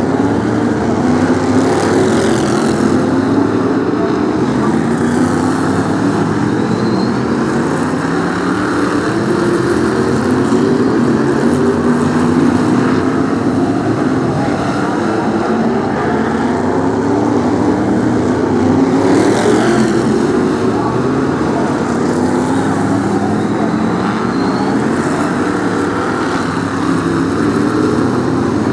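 Several BriSCA F1 stock cars' V8 engines racing on a shale oval, revving up and down as they lap. Cars pass close about three seconds in and again near the twenty-second mark.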